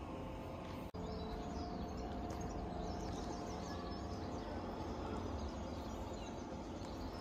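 Outdoor ambience: small birds chirping repeatedly over a steady low hum and background noise.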